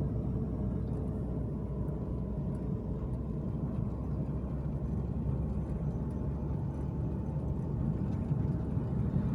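An old Toyota Great Corolla on the move: steady engine and road rumble, low-pitched and even, with a faint steady whine above it.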